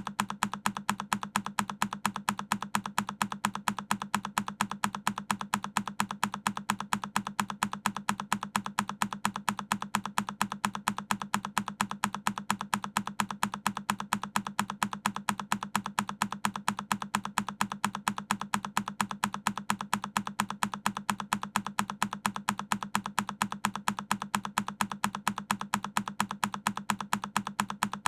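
A single key on a Keychron K10 mechanical keyboard pressed over and over, evenly spaced clicks several times a second.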